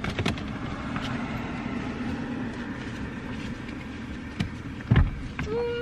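A vehicle's steady low running hum, with a few light clicks and knocks and one loud thump about five seconds in.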